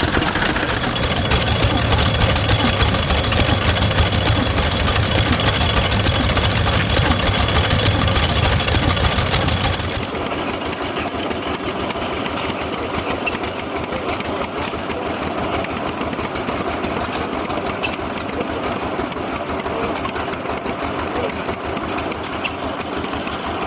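Old engines running steadily. About ten seconds in, the sound cuts to a different, quieter engine with an even, rapid beat.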